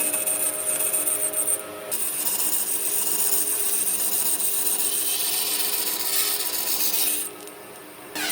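A power tool working on wood, a steady abrasive grinding with a high hiss, easing briefly about two seconds in and dropping away for about a second near the end.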